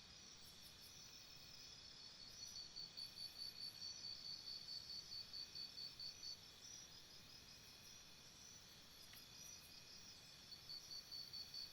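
Crickets chirping faintly over a steady high insect trill, with a quick pulsing chirp at about four to five a second that fades out in the middle and comes back near the end.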